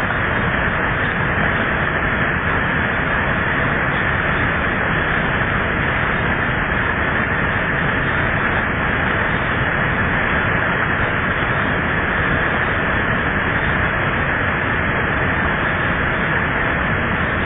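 Heavy thunderstorm rain pouring down, with rainwater from a roof and shed splashing heavily. It is a loud, steady hiss with no breaks.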